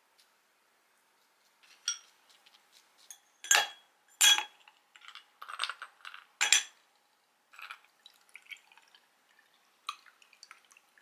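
Glass and tableware being handled: a series of sharp clinks with a short ring, the three loudest about three and a half, four and a quarter and six and a half seconds in, with lighter clatters between.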